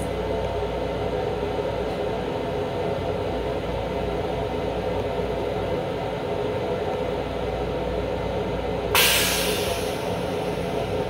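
Steady hum and rumble of a Long Island Rail Road M7 electric railcar, heard from inside the car. About nine seconds in, a sudden short hiss fades over a second or so.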